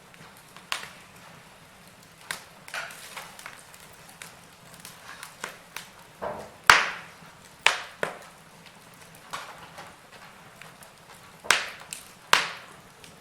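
Wood fire crackling in a fireplace: irregular sharp pops and snaps over a soft hiss, the loudest pop a little past halfway.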